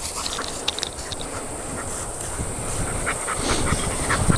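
German Shorthaired Pointer panting after running.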